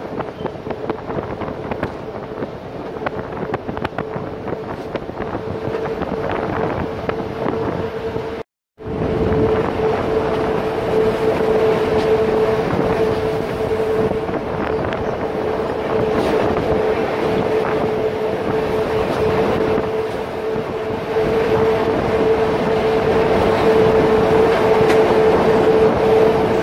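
The Little Yellow Train, a metre-gauge electric train, running along the line, heard from an open carriage: steady running noise with wind buffeting the phone's microphone and a steady high whine over it. The sound cuts out completely for a moment about eight seconds in.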